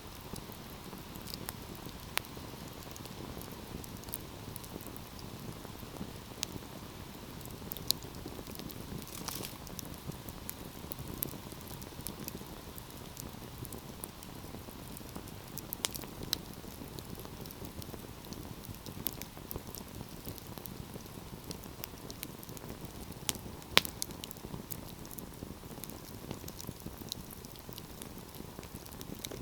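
Fire crackling: a steady hiss with scattered sharp pops and snaps at irregular intervals, the loudest about 24 seconds in.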